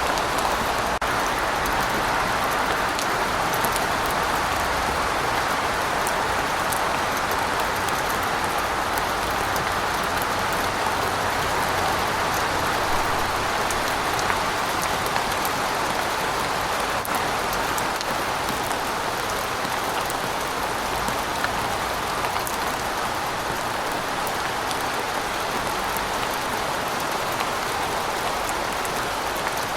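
Steady rain falling, with the patter of individual drops striking a surface.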